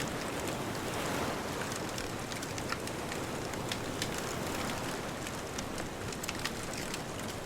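Wood bonfire crackling, with many small sharp pops at irregular moments, over a steady rushing wash of distant ocean surf.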